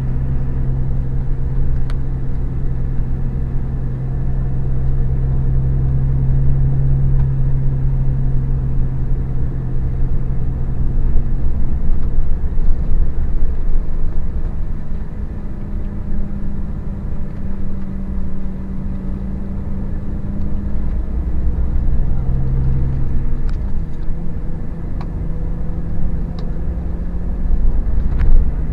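Scania K400IB coach under way, its engine and drivetrain making a steady low rumble. A humming tone holds for about twelve seconds, then shifts higher, and drops back briefly a few seconds later.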